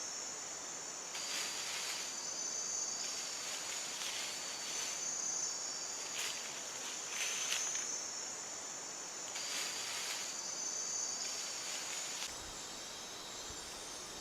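Night-time tropical forest insect chorus, mainly crickets: a steady high-pitched trilling that swells louder every second or two.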